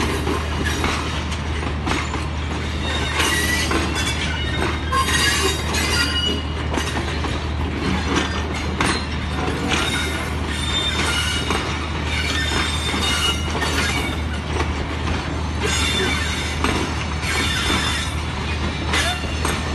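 Passenger train rolling slowly into the station. Its wheels squeal and screech on the rails again and again, with clicks over the rail joints, over a steady low diesel locomotive rumble.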